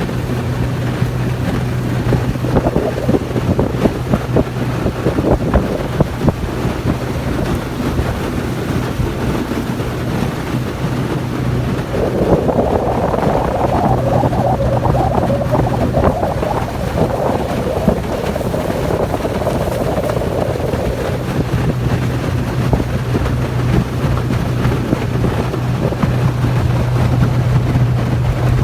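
Yamaha 30 hp outboard motor running steadily at speed on an aluminium boat, with wind buffeting the microphone and water rushing past the hull. The rush of wind and water grows louder for several seconds midway.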